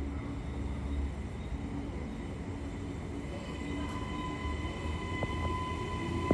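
Electric suburban passenger train running, a steady low rumble with a steady high whine that comes in about halfway through.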